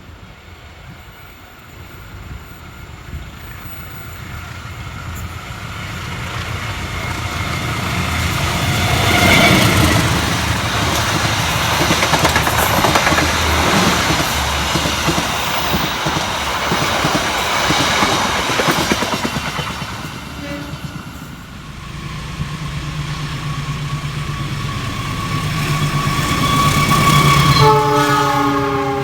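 A train passing through a station: rumble and wheel clatter build up and stay loud through the middle. After a short lull a locomotive comes in with a low steady hum and sounds its multi-tone horn near the end.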